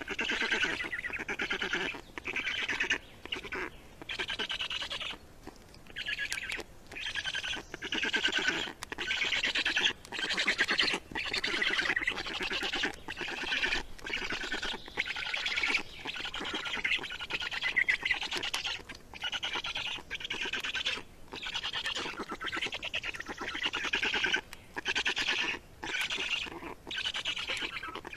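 A little bird calling over and over in rasping squawks, each lasting from a fraction of a second to over a second, with short gaps between them.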